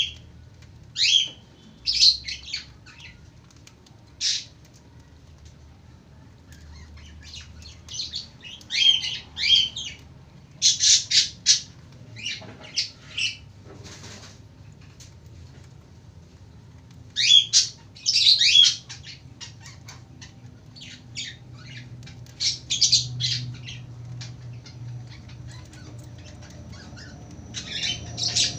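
Lovebird calling in clusters of short, shrill chirps and squawks, with pauses of a few seconds between the clusters.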